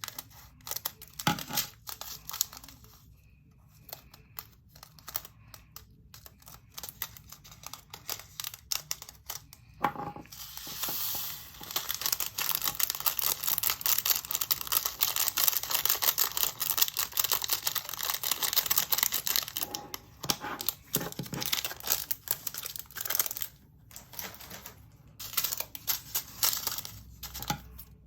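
Tiny resin diamond-painting drills being handled and poured from a plastic bag into a small plastic storage container: scattered clicks and bag rustles, then from about ten seconds in a dense rattle of many drills pouring for about ten seconds, then scattered clicks again.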